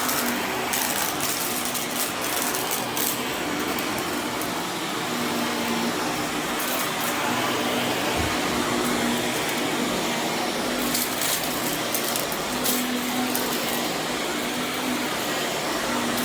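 Vacuum cleaner running steadily over berber carpet, with scattered crackles and clicks of grit and debris being sucked up.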